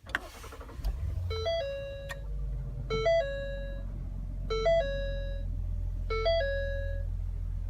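The Ford Taurus SHO's 3.5L twin-turbo EcoBoost V6 is push-button started, catches within about a second and settles into a steady low idle. Over it, the car's electronic warning chime sounds a short three-note tone four times, about every one and a half seconds.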